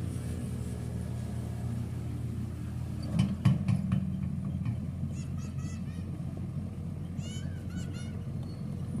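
Backhoe excavator's diesel engine running steadily, with a few sharp clanks a little over three seconds in. From about five seconds on, short high-pitched animal calls come in repeated bursts.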